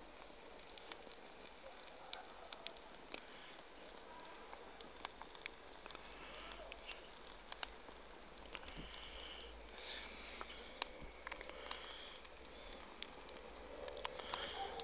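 Campfire burning with faint crackling and scattered sharp pops at irregular intervals.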